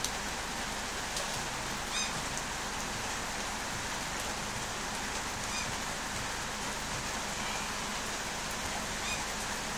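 Steady rain falling on a wet concrete path.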